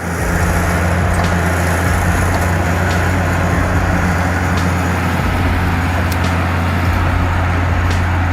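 Log skidder's diesel engine running steadily under load, a loud even low hum without let-up.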